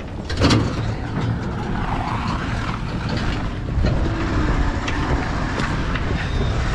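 Old Ford F700 dump truck moving under engine power, a continuous heavy rumble with scattered clanks and rattles. The truck has no working brakes or clutch, so it cannot be stopped.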